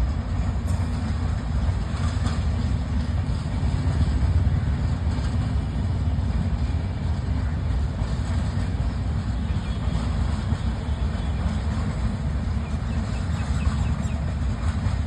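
Steady low rumble of a vehicle in motion, even throughout with no distinct knocks or tones.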